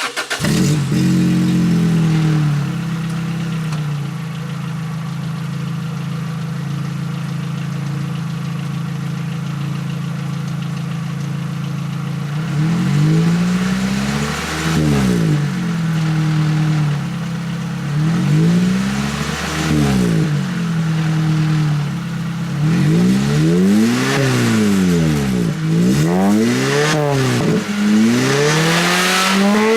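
Lotus Elise SC's supercharged 1.8-litre 2ZZ-GE four-cylinder running through ARQRAY stainless exhausts. It idles steadily, settling from a slightly higher idle in the first few seconds. About halfway in it is revved once, again a few seconds later, then blipped several times in quick succession near the end.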